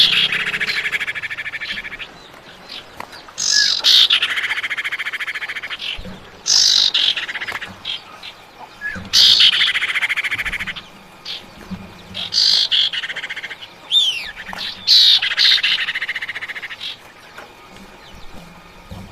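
Female common iora (cipau) calling, the call used as a lure to draw in males. The phrase repeats about every three seconds: a sharp falling note and then a rapid buzzy trill lasting about a second and a half. Short whistled notes come between the phrases.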